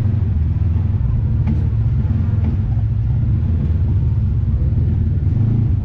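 An off-road vehicle's engine running at a steady speed while riding, heard as a loud, even low drone.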